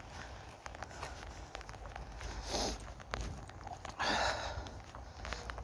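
Footsteps on a wet pavement, a run of light clicks, with two short, louder breathy noises close to the microphone, one about two and a half seconds in and a longer one about four seconds in.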